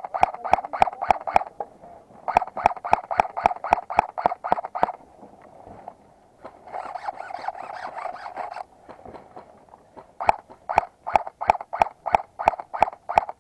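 Airsoft guns firing rapid single shots, about four to five a second, in runs with short pauses between, and a denser rattling burst around seven seconds in.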